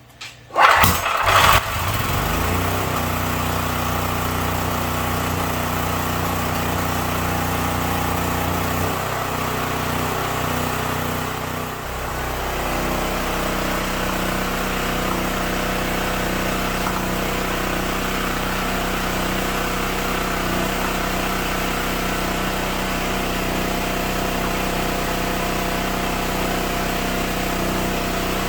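13 hp single-cylinder engine of an All Power 6,000-watt portable generator starting on choke, catching within about two seconds, then running steadily. Its note shifts twice, around nine and twelve seconds in, and then holds even.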